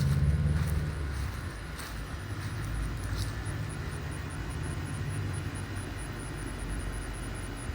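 Boeing 737 MAX 8 jet engines rumbling low as the airliner flies past on approach. The rumble is loudest in the first second, then eases to a steady, quieter rumble.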